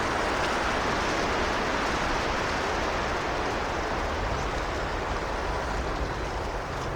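Steady wind rushing through forest trees, an even rush with a low rumble underneath.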